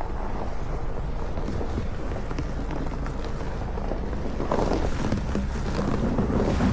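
Wind buffeting the microphone: a steady low rumble, with louder, scratchier noise from about halfway through.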